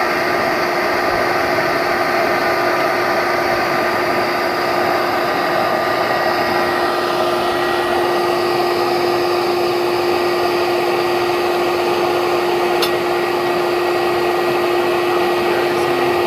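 Electric vacuum running steadily, a constant whine over a rushing hiss.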